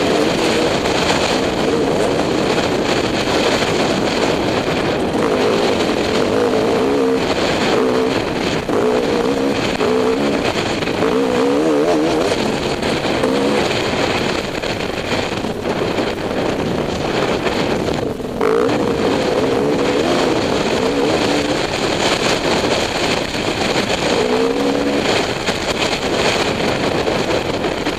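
Dirt bike engine running under changing throttle, its pitch rising and falling as it revs up and eases off, with a short drop about two-thirds of the way through, over a steady rush of wind noise.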